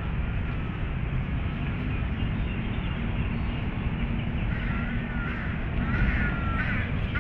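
A bird calling several times in a row from about halfway through, over a steady low rumble of outdoor background noise.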